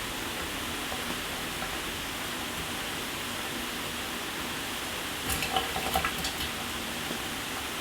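Shower running: a steady hiss of water spray, with a short cluster of sharper splashes and ticks about five to six and a half seconds in.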